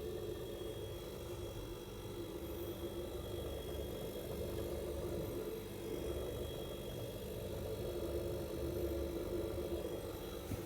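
A steady, low mechanical hum with an unchanging tone.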